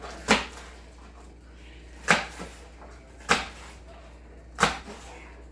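Kitchen knife chopping vegetables on a cutting board: four sharp knocks, one about every second and a quarter.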